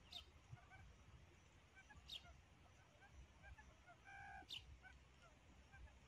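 Faint bird calls: a short high chirp repeating about every two seconds, and about four seconds in a brief lower call held at one pitch.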